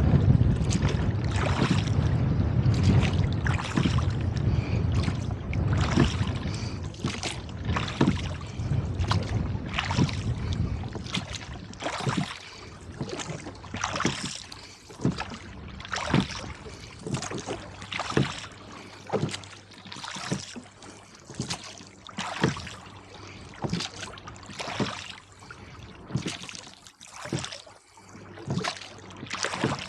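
Rowboat oars working steadily: a splash and knock at each stroke, about once a second. Wind buffets the microphone with a heavy rumble for the first ten seconds or so, then dies away, leaving the strokes clear.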